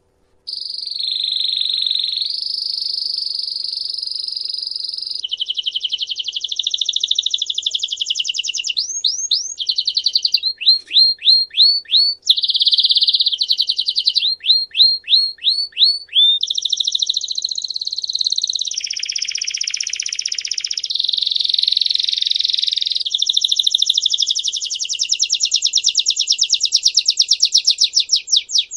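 A songbird singing a continuous song of fast trills, each phrase held for one to several seconds before changing pitch and speed, with runs of quick repeated downward-slurred notes partway through.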